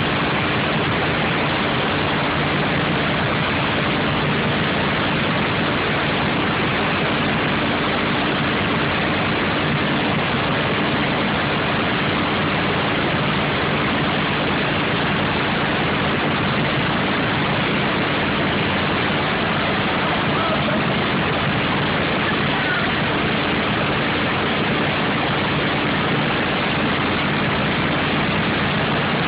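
Race car engine idling steadily, under a constant rushing noise.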